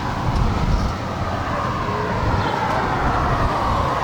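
Car engines running at a drag strip: a steady low rumble with a tone above it that slowly rises and then falls.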